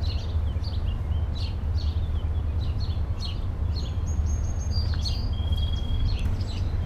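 Songbirds chirping repeatedly in short high notes, with a couple of longer whistled notes near the middle, over a steady low rumble.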